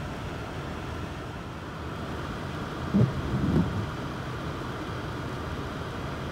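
Steady rain with wind noise on the microphone, with two short, low bursts of sound about three seconds in.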